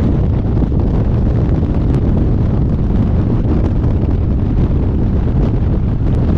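Heavy wind noise on the microphone of a motorcycle riding at speed, a steady low rush with the bike's running underneath.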